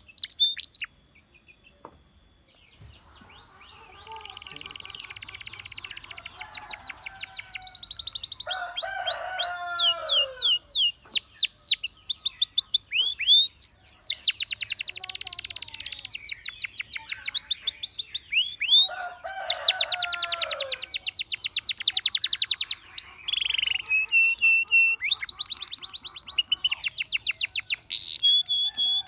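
Domestic canary song: long, fast trills of rapidly repeated notes alternating with swooping whistles and short held notes. The song breaks off briefly about a second in, then resumes and runs on loud and continuous.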